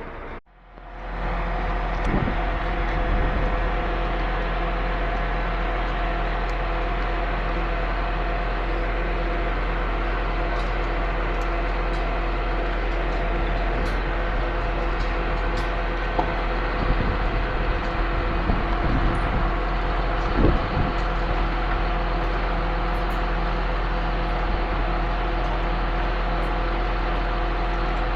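Concrete pump truck running: a steady mechanical drone with a few scattered knocks.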